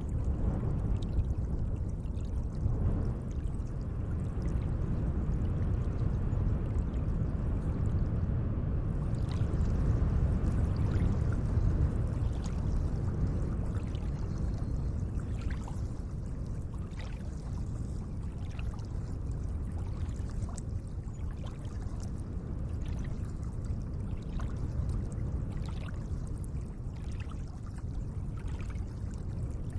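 Gentle lake water lapping and trickling: a steady low rush of water, with many small splashes and drips from about a third of the way in.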